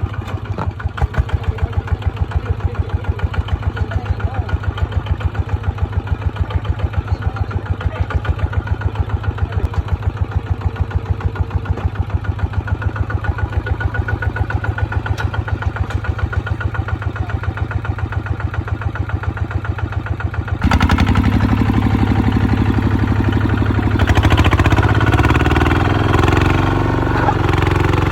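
Small tractor engine running with a steady, even beat. About 21 seconds in, the sound jumps abruptly to a louder engine note, and from about 24 seconds its pitch rises and falls as the engine works.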